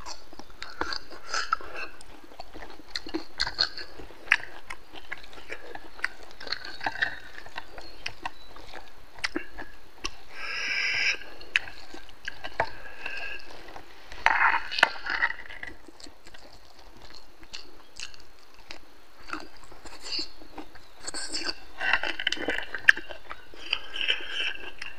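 Close-up sound of a person chewing a mouthful of rice and pork curry, with many small, sharp mouth clicks and a few louder bursts of chewing noise.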